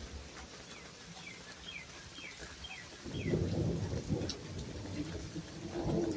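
Thunder rumbling over steady rain, swelling up about halfway through. Just before it, a bird gives a run of short falling chirps.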